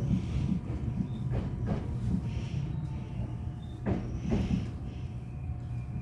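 Seoul Subway Line 1 electric train running, heard from on board: a steady low rumble with two pairs of sharp wheel clacks as the wheels pass over rail joints, one pair about a second and a half in and another about four seconds in.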